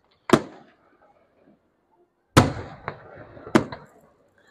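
Fireworks shells bursting overhead: a loud bang just after the start, then two more about two and three seconds later with a smaller crack between them, each dying away in a short rumble.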